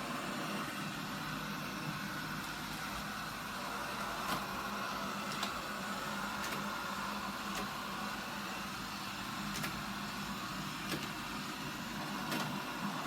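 Eufy RoboVac G30 robot vacuum running, its suction fan and brushes giving a steady whirring hum, with occasional faint light clicks.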